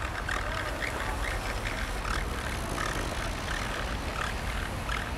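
Low, steady rumble of a Siemens Desiro diesel multiple unit running, with a string of short mid-pitched calls or squeaks over it, about two a second.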